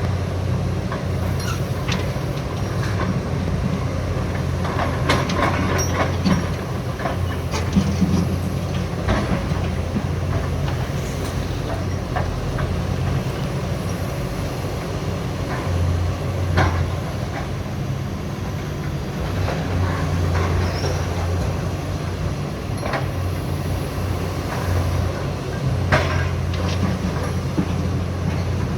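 Caterpillar hydraulic demolition excavators at work: a steady diesel engine drone, with scattered sharp cracks and knocks of debris being broken and dropped.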